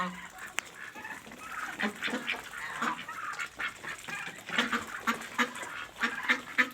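A flock of farm poultry calling while crowding to feed on soaked bread, with many short overlapping calls.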